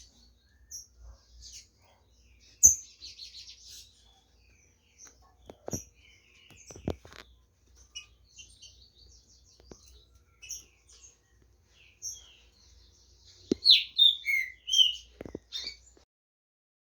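Green-winged saltators (trinca-ferro) chirping and calling in short, scattered notes, with a louder run of calls near the end. A few sharp knocks are mixed in.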